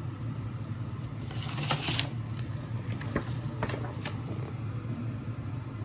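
A steady low hum with a few light clicks and knocks over it, and a brief hiss about a second and a half in.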